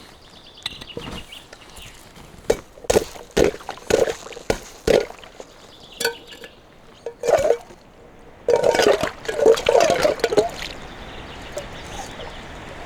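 Footsteps crunching on hard snow, about two steps a second, then a denser stretch of crunching and scuffing about nine seconds in, followed by a steady hiss.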